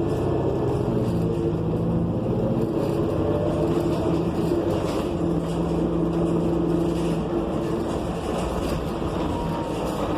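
New Flyer XN40 city bus with its Cummins Westport ISL G natural-gas engine running as the bus drives, heard from inside the cabin: a steady drone whose engine tones shift a little in pitch, easing slightly near the end.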